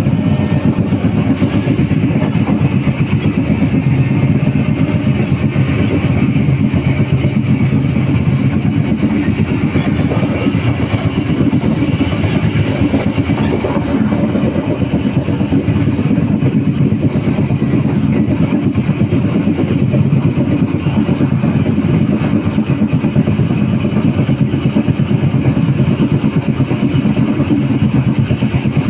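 Local passenger train running along the track, heard from inside a coach as a steady low rumble, with a few faint clicks about halfway through.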